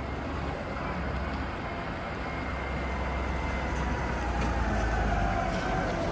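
Garbage truck engine running steadily, growing slowly louder, with a faint whine above the engine drone.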